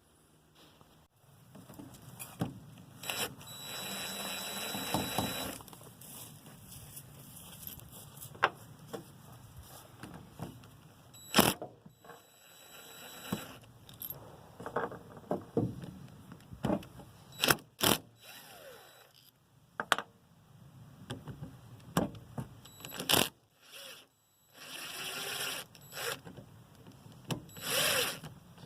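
Metal tools and engine parts clinking, knocking and scraping during an engine teardown: scattered sharp clinks and knocks, with a few longer scraping or rattling stretches, one about four seconds in and two near the end.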